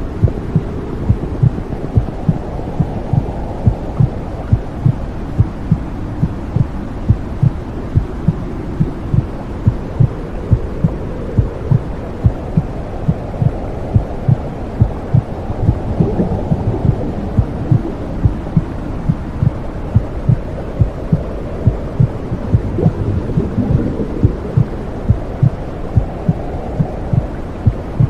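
Womb sound: a heartbeat thumping in a steady, regular rhythm over a low whooshing rush, which swells a little about halfway through and again later on.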